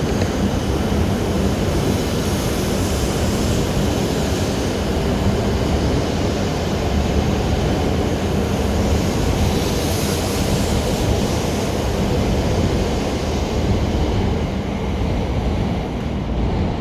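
E7-series Shinkansen train departing, a loud steady rumble and hiss of the running train. The high hiss fades over the last few seconds.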